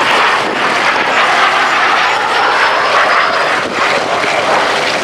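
Jet noise from the Gloster Meteor T.7's twin Rolls-Royce Derwent turbojets as it flies its display: a loud, steady rushing roar with a faint high whistle in the middle.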